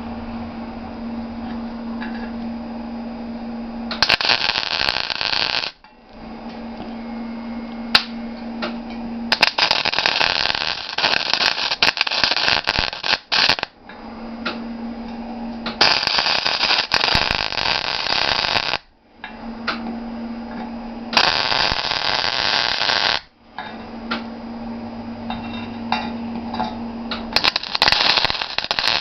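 Welding arc crackling and sputtering in five separate runs of about two to four seconds each, with a steady hum in the pauses between them.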